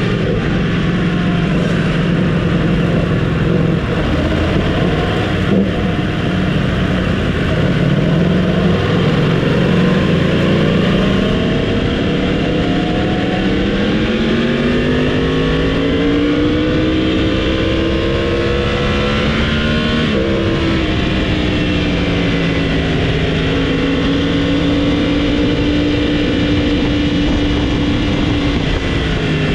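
Motorcycle engine under way at speed, holding a steady pitch at first, then climbing for several seconds, dropping sharply about twenty seconds in as it shifts up, and climbing again.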